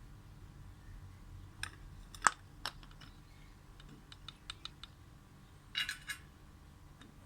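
Scattered sharp taps and clicks: a loud one about two seconds in, a quick run of light ticks around four to five seconds, and a short cluster near six seconds.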